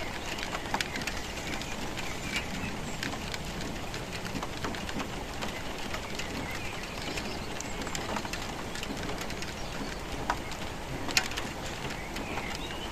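Steady rainfall, with drops hitting a surface in sharp ticks and one louder drip about eleven seconds in. A bird calls briefly a few times over the rain.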